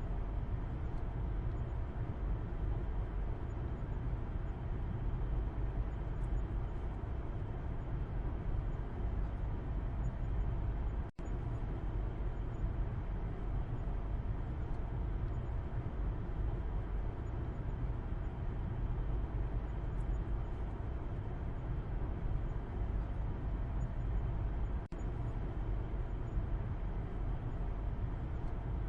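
Car interior road noise heard from the back seat while driving: a steady low rumble of engine and tyres with an even hiss above it. The sound drops out for an instant twice.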